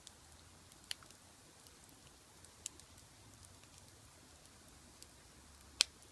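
Wood fire burning in a large iron pot, crackling with a few sharp pops, the loudest near the end, over a faint steady hiss.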